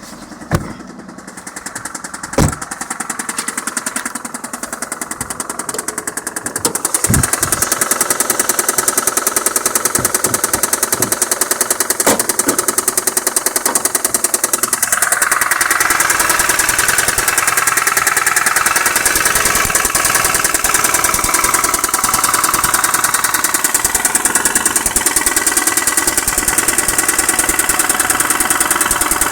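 Mazda Xedos 9's V6 engine idling with a rapid, even knock in the engine. A few sharp clicks come early on, and about seven seconds in the engine and its knock become much louder and closer.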